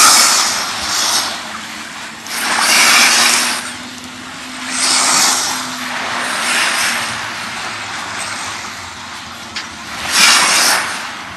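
Small sea waves washing onto the beach, a hissing swell every two to three seconds that rises and falls away, with a faint steady hum underneath in the middle.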